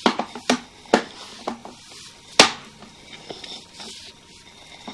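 Sewer inspection camera and push cable being pulled back through the ABS pipe, making a series of irregular sharp knocks and clicks, the loudest about halfway through.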